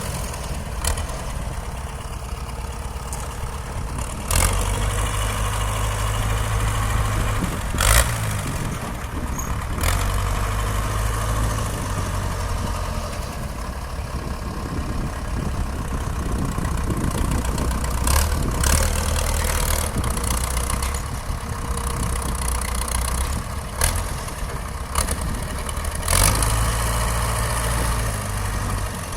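Chevrolet Cimarrón four-cylinder diesel (a Bedford six cut down to four cylinders) in a modified Hanomag 75 tractor, running under load. Its note swells and eases several times, and a few sharp knocks come through, the loudest about 8 seconds in.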